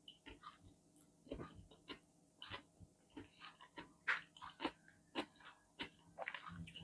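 Close-miked eating sounds: irregular wet chewing clicks and mouth smacks, roughly one or two a second.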